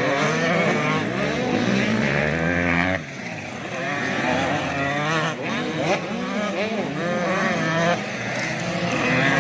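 Several 85cc two-stroke motocross bikes racing, their engines revving up and down over one another. The loudness drops suddenly about three seconds in.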